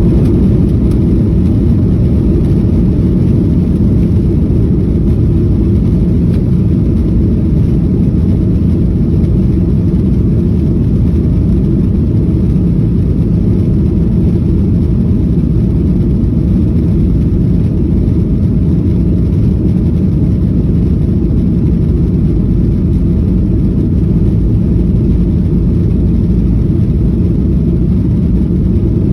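Jet airliner cabin noise during take-off: a loud, steady low rumble of the engines at take-off power and the airflow around the fuselage, heard from inside the passenger cabin.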